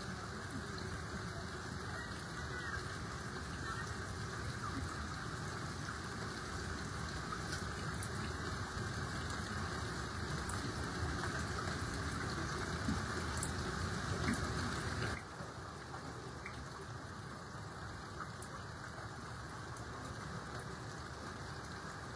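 Steady rushing noise of water in a flood, rain or running floodwater, with a sudden drop in level about fifteen seconds in.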